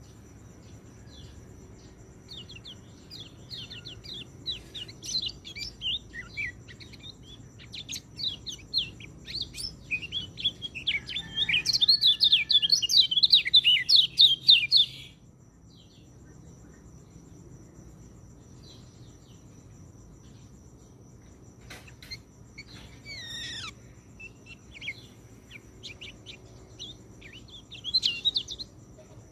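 White-eye (peleci) song: quick, high twittering phrases that build into a loud, unbroken stretch of song about halfway through, then break off, followed by shorter phrases later. A steady high insect trill runs underneath.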